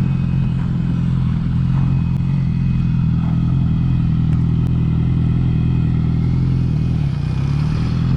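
Yamaha R6's inline-four engine running steadily at low revs as a learner rides it slowly on the clutch, with a slight change in pitch near the end.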